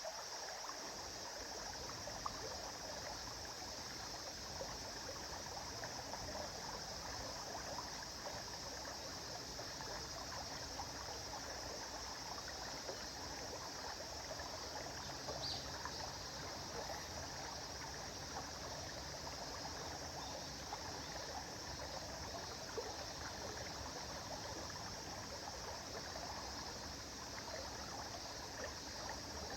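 Shallow river or stream flowing steadily, a continuous babbling and trickling of water over stones.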